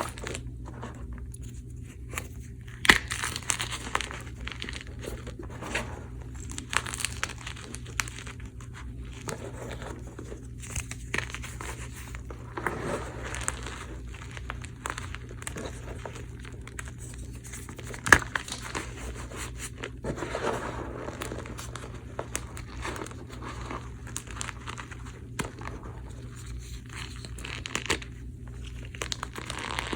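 Blocks of gym chalk topped with cornstarch being crushed: steady irregular crumbling and crackling, with a couple of sharper cracks, one about three seconds in and one about eighteen seconds in.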